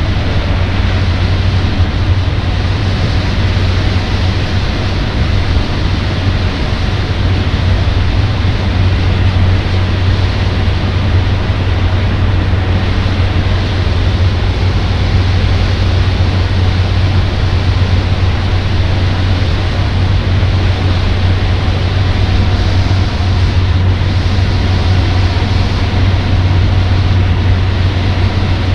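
Cabin noise of a Cessna 208 Caravan with its PT6A turboprop engine and propeller running steadily: a deep, even drone under a wide rushing noise.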